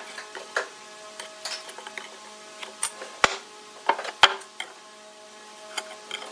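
A string of irregular sharp clicks and knocks, like hand work with tools on wood, over faint steady background music.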